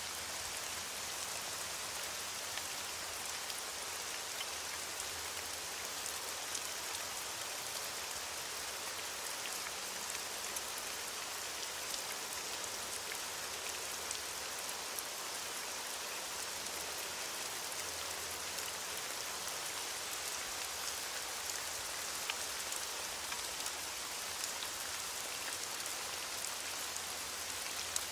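Steady heavy rain falling on surfaces, a continuous hiss with many small drop ticks.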